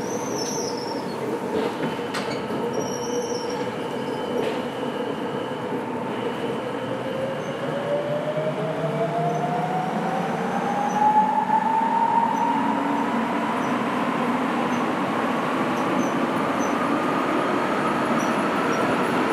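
Sapporo Municipal Subway Namboku Line 5000 series rubber-tyred train running, heard from inside the car: a steady rolling noise, with the motor whine rising in pitch from about six seconds in as the train picks up speed.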